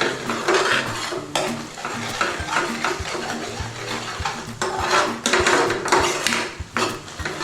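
Spoon stirring curry sauce in a pan, with repeated scrapes and clinks against the pan as the gravy is cooked down.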